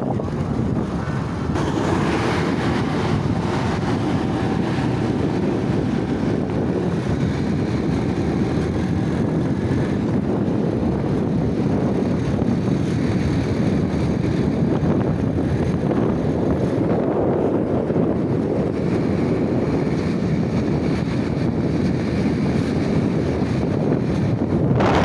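Wind buffeting the microphone over a steady vehicle rumble.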